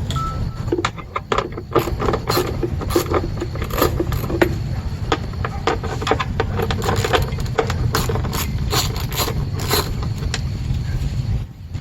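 Plastic parts of a truck HVAC box being handled and set down: an irregular run of clicks, taps and scrapes over a steady low hum.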